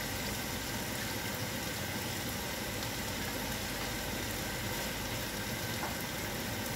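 Beef slices and garlic frying in a pan, a steady sizzle over a steady low hum.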